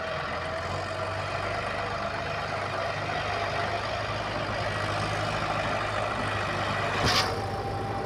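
Mahindra Arjun 555 tractor's diesel engine running steadily, with a brief loud burst of noise about seven seconds in.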